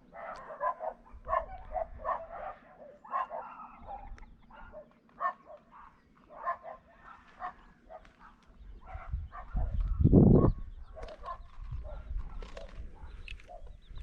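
Domestic hen clucking in a run of short repeated notes, a few each second. About ten seconds in there is one loud, low burst of noise.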